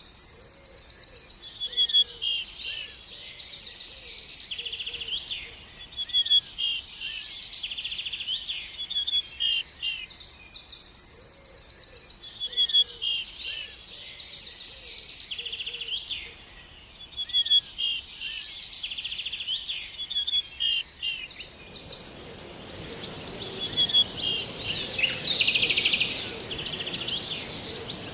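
A songbird singing the same high, trilled phrase over and over, about every five to six seconds, with short chirps between. About three-quarters of the way through, a steady high hiss and louder background noise come in under the song.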